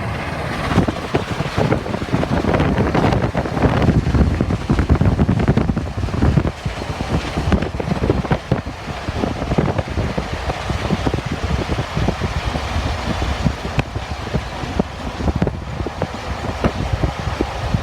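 Union Pacific 844, a 4-8-4 steam locomotive, running at speed, its exhaust and running gear a dense, rapid rumble mixed with heavy wind buffeting on the microphone.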